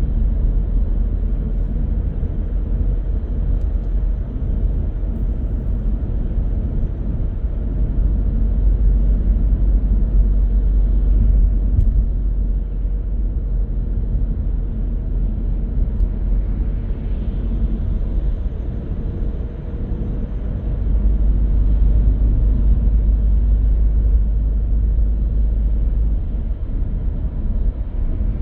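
A car driving on the road: steady low rumble of tyres and engine, easing briefly about two-thirds through before picking up again.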